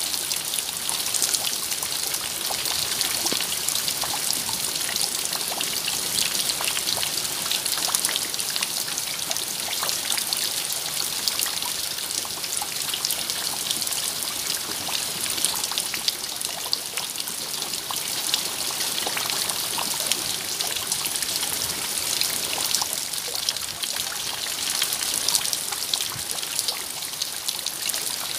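Steady rain falling, a continuous hiss full of fine drop ticks.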